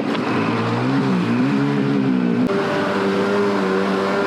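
Jet ski engine running, its pitch wavering up and down for the first couple of seconds, then holding steadier after an abrupt break about two and a half seconds in.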